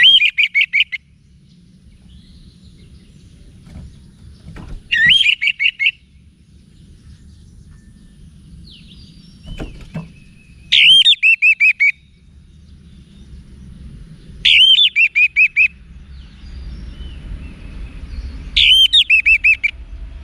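Orange-headed thrush singing: five short phrases a few seconds apart, each a clear sliding whistle that breaks into a quick run of repeated notes.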